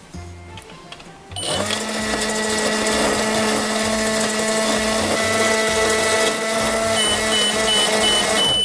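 Toy magic microwave's electronic running sound: a steady, loud humming drone switches on about a second and a half in. From about seven seconds it is joined by a string of short, high beeps, the microwave's cycle-finished signal.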